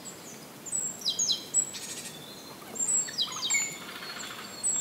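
Small birds singing: short, high, falling chirps in quick runs, coming every second or so over a faint steady hiss.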